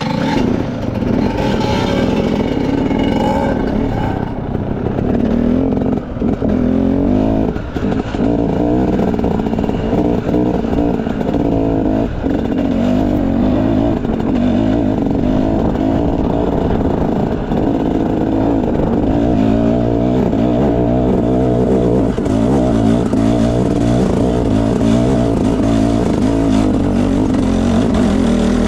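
Enduro dirt bike engine running under throttle as it is ridden, revving up and down, with a few knocks.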